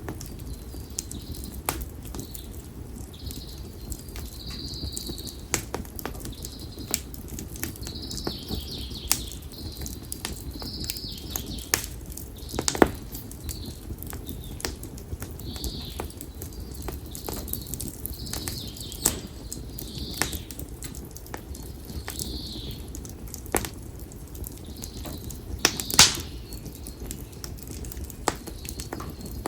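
Konara oak firewood burning in a bonfire, crackling with irregular sharp pops (the biggest about 13 s and 26 s in) over the low rumble of the flames. Birds call again and again with short high notes.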